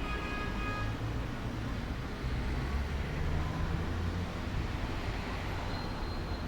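Steady low rumble of outdoor background noise, with a few brief thin tones in the first second and a high thin tone near the end.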